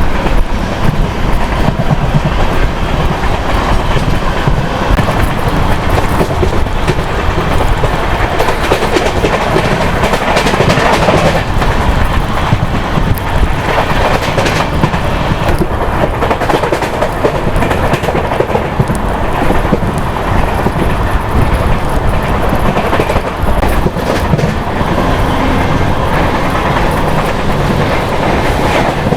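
Express train running at speed in an LHB coach: a steady rumble from the wheels and bogies on the rails, with frequent clatter from rail joints.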